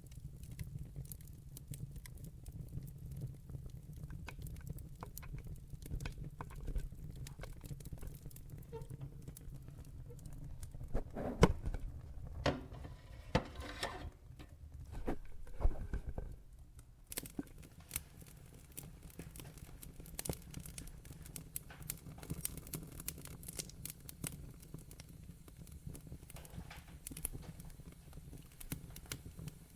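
Wood fire in a fireplace crackling: scattered sharp snaps and pops over a steady low rumble, with a cluster of louder pops near the middle.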